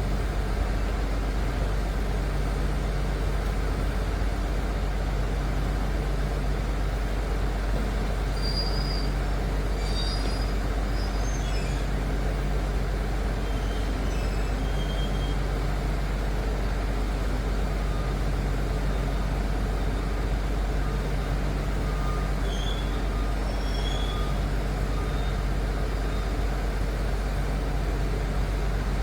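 Liebherr PR 746 Litronic crawler dozer's diesel engine running steadily under work, a deep drone with a hum that comes and goes every few seconds. A few faint, short high chirps sound over it now and then.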